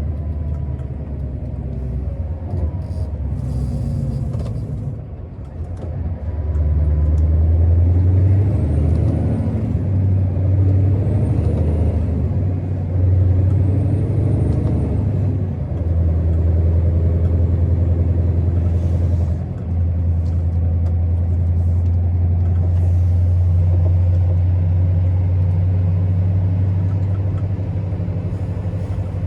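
Scania R650's V8 diesel engine pulling steadily with a deep drone. The note drops briefly twice, about five and about nineteen seconds in. A short hiss comes about four seconds in.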